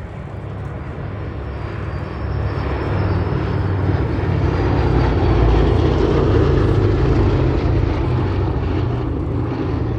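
B-17 Flying Fortress and P-47 Thunderbolt flying past in formation, their radial piston engines droning. The sound swells to its loudest about five to seven seconds in, then fades.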